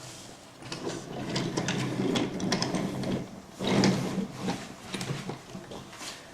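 Toy train and its track pieces clattering and rattling on a train table, in two bouts with many small clicks.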